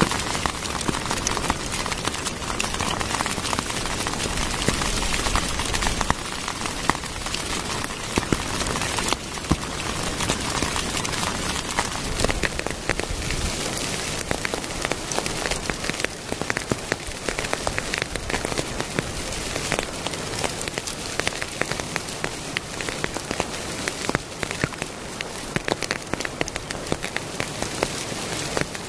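Steady rain falling on wet leaf litter and rock, a dense run of individual drops striking close by.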